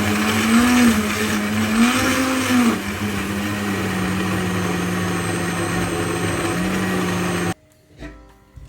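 Electric blender running, a steady motor hum whose pitch dips and recovers several times in the first few seconds as it works through the contents, then switched off abruptly near the end.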